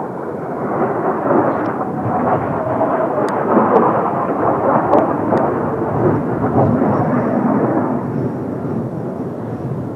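Jet roar of Kawasaki T-4 trainers' turbofan engines passing, a deep rumble that swells to its loudest a few seconds in and then slowly fades.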